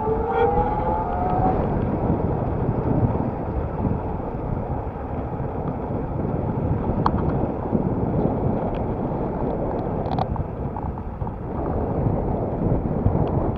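Steady loud rumble of wind on the microphone and road noise from a moving electric bicycle. A rising whine fades out about a second or so in, and a couple of faint clicks come later.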